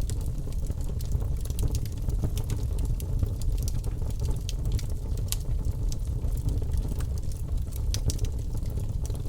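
Bonfire burning: a steady low rumble of flames with frequent sharp crackles and pops scattered through it.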